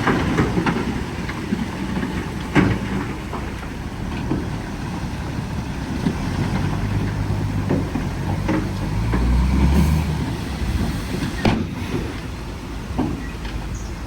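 Bulldozer's diesel engine running steadily under load, with sharp metallic clanks now and then, the loudest about two and a half seconds in and again near the end.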